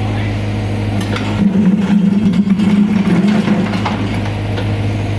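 Excavator's diesel engine running steadily, its note growing louder for about two seconds partway through, as if under load.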